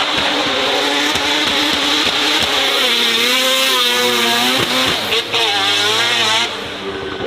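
Racing car engine running hard and loud, its pitch rising and falling repeatedly as it is revved, then dropping away sharply near the end.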